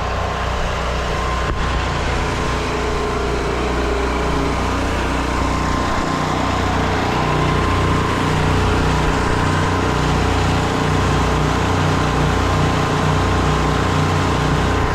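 Small gasoline engine running steadily close by, its note shifting slightly about four seconds in; it is the kind of engine that powers a soft-wash rig's generator and pump.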